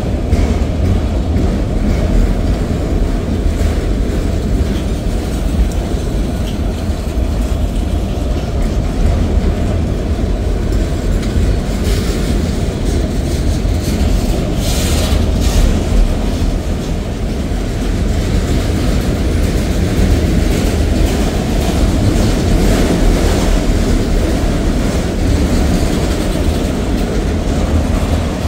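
Freight train of autorack cars rolling past close by: a steady, loud low rumble and clatter of steel wheels on the rails. A brief higher-pitched hiss cuts in about halfway through.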